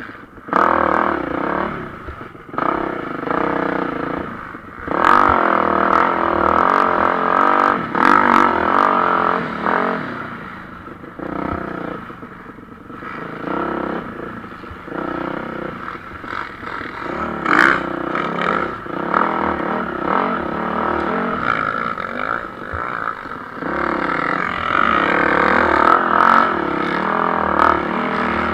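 Motocross bikes racing past on a dirt track, their engines revving hard, dropping away at gear changes and off the throttle, and swelling again as they pass one after another.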